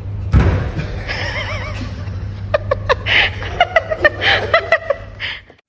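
A sudden loud bump, then a wavering high-pitched sound, then a person laughing in short chuckling bursts until the sound cuts off abruptly near the end.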